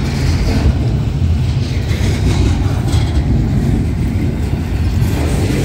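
Freight train with diesel locomotives running past, a loud, steady low rumble.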